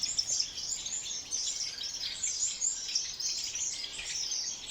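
Many small finches in a mixed aviary chirping and twittering at once: a dense, unbroken chatter of short, high calls.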